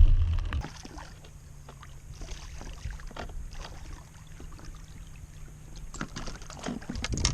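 Small knocks and rubbing of gear aboard an anchored fishing kayak, with a low rumble fading in the first half-second and a cluster of louder knocks near the end.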